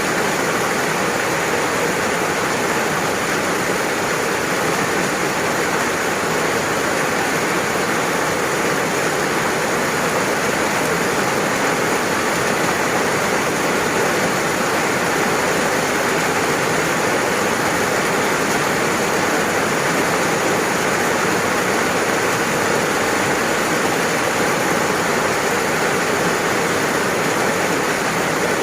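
Steady rain, an even hiss that holds without break or change.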